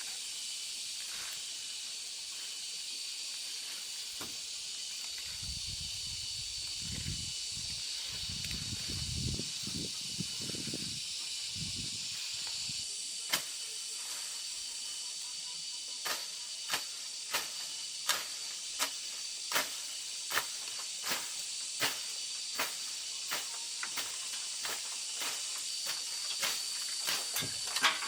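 A steady high-pitched insect drone, with a series of sharp, evenly spaced knocks, about one every three-quarters of a second, from a little past halfway.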